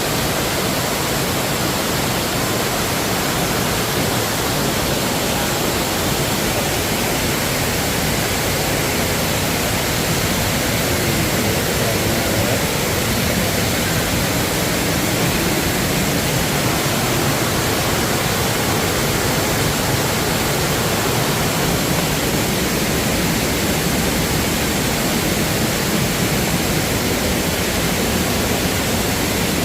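Waterfall cascading close by: a loud, steady, even rush of falling water.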